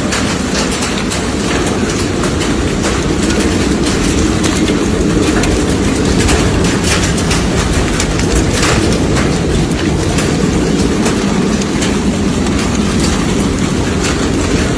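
Storm wind with a steady, heavy rumble and scattered sharp clicks.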